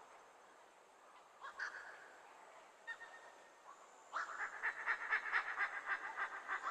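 An animal calling over faint forest background: two short calls, then from about four seconds in a loud, rapid run of harsh repeated notes, about eight to ten a second.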